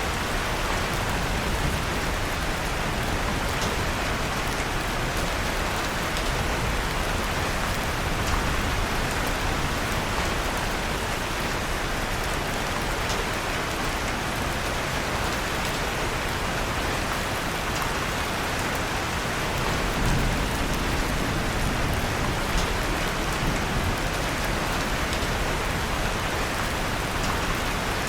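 Steady rain falling, an even hiss with a light patter of drops, mixed with the faint crackle of a wood fire in a fireplace.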